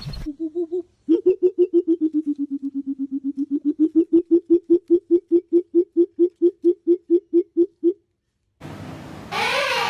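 A bird calling a long, rapid series of short, low, same-pitched hooting notes, about four or five a second, for some seven seconds. A different, louder sound comes in near the end.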